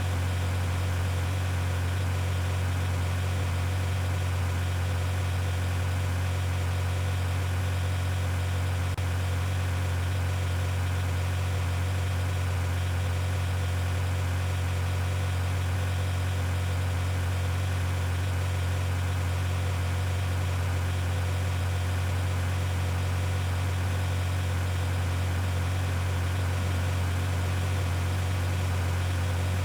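Steady, unchanging low mechanical hum, like an engine idling.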